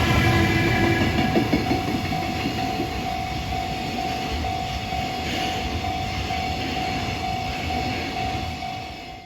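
Freight train running past on the rails, its wagons' wheels rumbling with a steady thin whine through the noise. The sound is loudest at first, eases gradually, and drops away sharply at the very end.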